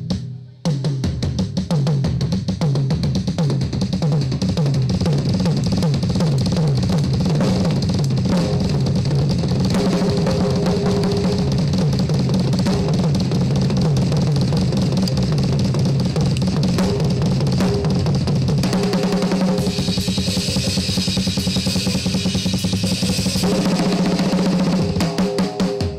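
Live rock band playing loud with the drum kit to the fore: fast bass drum and snare strokes, cymbals and a bass line underneath. The band stops briefly just after the start, then comes back in, and the cymbal wash is heavier for a few seconds past the middle.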